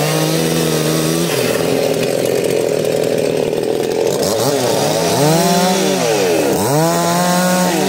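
Two-stroke chainsaw running at high revs, then cutting into wood under load for about three seconds. After that the engine speed swings down and up several times.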